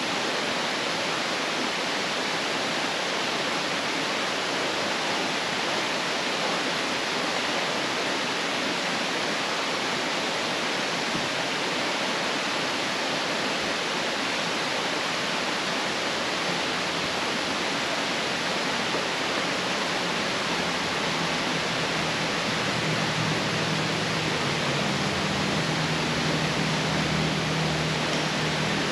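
Steady, even rushing noise with no breaks; a low steady hum joins it about two-thirds of the way through.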